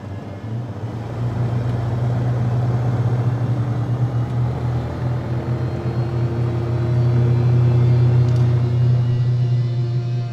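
Deep, steady engine rumble of Batman's hovering "Bat" aircraft, a low hum under a noisy roar that swells about seven seconds in. A faint rising tone joins over the last few seconds.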